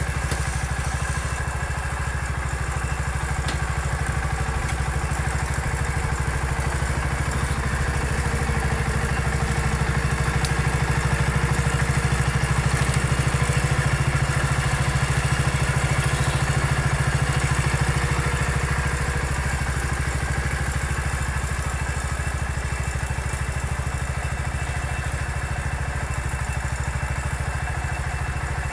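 A small engine running steadily, a little louder around the middle, with some clatter.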